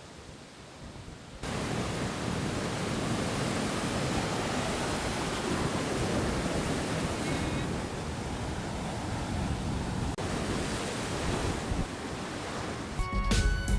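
Heavy storm surf from hurricane swell, waves breaking in a continuous rush with wind buffeting the microphone. The surf is quieter for the first moment and then jumps louder. Music starts near the end.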